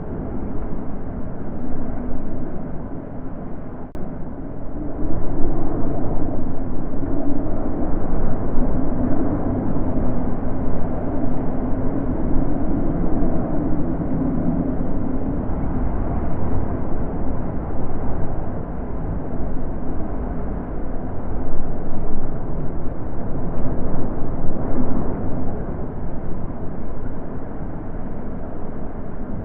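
Wind blowing in gusts, a low rushing rumble that swells stronger about five seconds in, eases, and swells again near the end.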